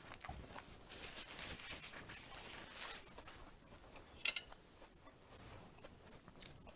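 Quiet chewing and mouth sounds of eating fried chicken, with one sharp clink of a metal fork on a china plate about four seconds in.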